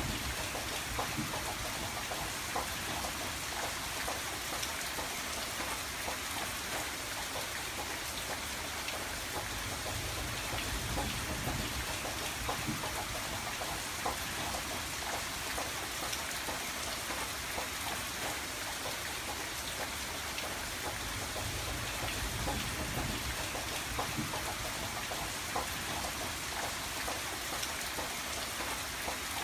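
Steady rain pattering on a window, many small drop taps over an even hiss, with a low rumble that swells and fades below it.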